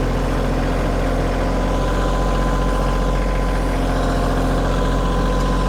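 Kioti compact tractor's diesel engine running steadily while it pulls a drag over a gravel driveway, with one short sharp click near the end.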